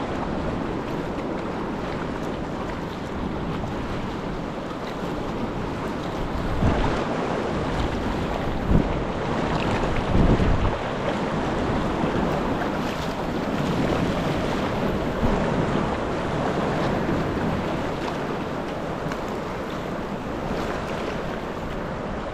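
Wind buffeting the microphone over the wash of sea waves, with a few louder gusts.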